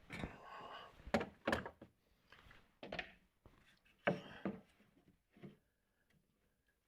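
A series of hollow wooden knocks and thumps, about six in the first five seconds, with brief scraping between them: boards, blocks and tools being handled and set down on a workbench. It goes quiet near the end.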